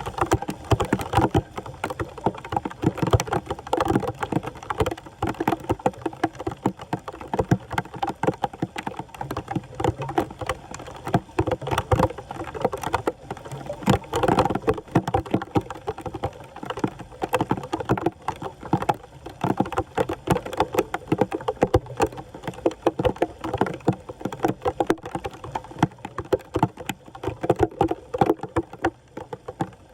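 Floodwater splashing and sloshing in a dense, continuous run of quick irregular splashes.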